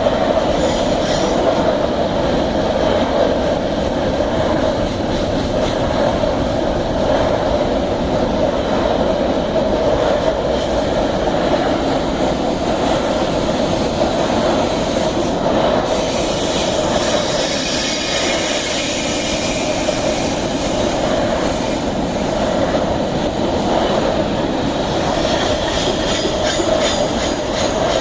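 Iron ore freight train rolling past on the track: a loud, steady rumble of steel wheels on rail, with high-pitched wheel squeal coming in a few times in the second half.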